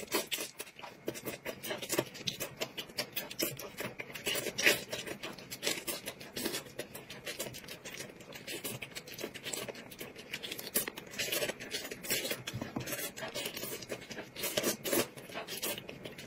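Close-miked mukbang eating sounds: wet chewing, lip smacks and tearing as meat is gnawed off a chicken leg, a quick irregular run of small clicks and crackles.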